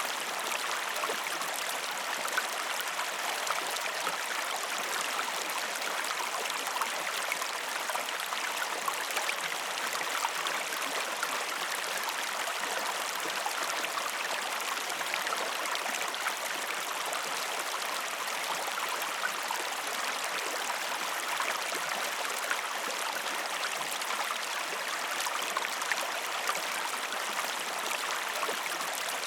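River water flowing steadily, with a fine trickling texture.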